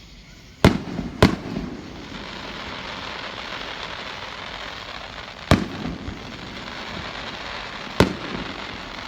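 Aerial fireworks bursting: four loud sharp bangs, two close together near the start, one about halfway and one near the end, each with a short rumbling echo, over a steady hiss.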